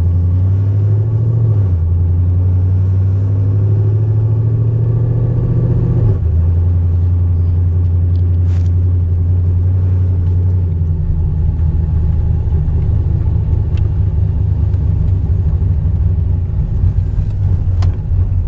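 GM V8 engine fitted with a DoD (Displacement on Demand) delete, running as the car drives: a steady low drone that changes pitch about a second and a half in and again about six seconds in. The engine doesn't run too well and needs a tune.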